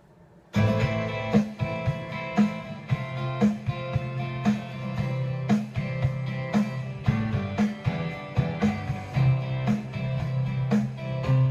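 Guitar-led music with a steady beat, accented about once a second, starting about half a second in; no singing yet.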